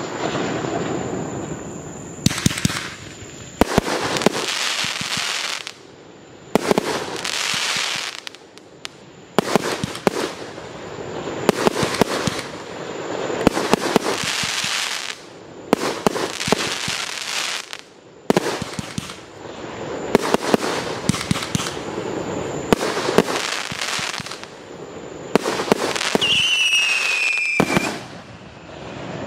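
Aerial fireworks bursting in quick succession, each sharp report followed by a spell of crackling, about every one to two seconds. Near the end a whistle slides down in pitch for a second or so.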